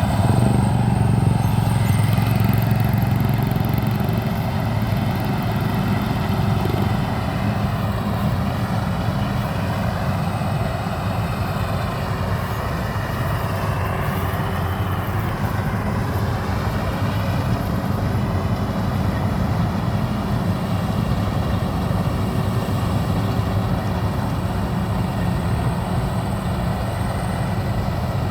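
Maxxi Bimo 102 combine harvester running steadily, its engine a constant low drone, with a higher whine that dips and rises about midway through.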